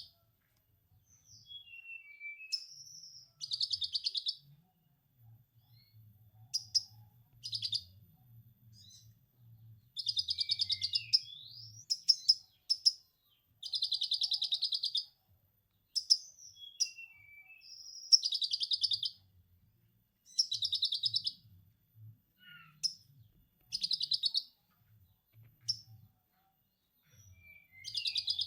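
Lovebird ngekek: long, rapid chattering trills in repeated bursts about a second long, with short downward-sliding chirps between the bursts.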